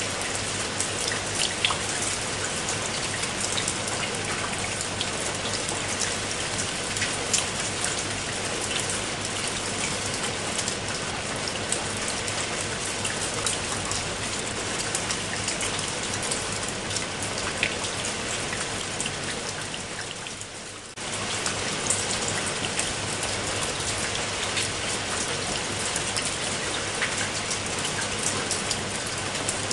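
Steady heavy rain with many separate drops ticking through it. About twenty seconds in, it dips briefly and then cuts back in abruptly.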